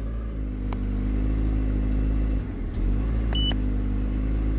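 Peugeot 307's 1.6-litre 16-valve petrol four-cylinder idling unevenly, its note dipping briefly about halfway through: the unstable idle of a car storing accelerator-pedal position sensor codes P0120 and P0121. A short electronic beep sounds about three seconds in.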